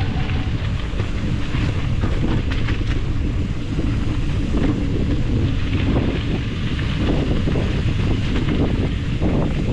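Wind buffeting the microphone, a steady rumbling noise.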